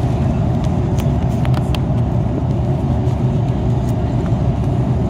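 Airbus A330 cabin noise in flight: a steady, even low rumble of the jet engines and airflow.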